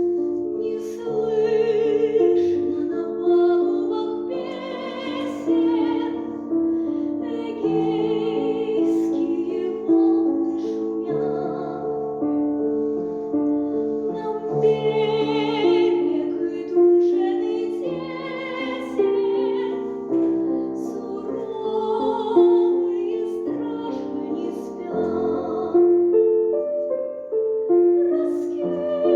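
A female voice singing a slow melody with vibrato, accompanied by piano.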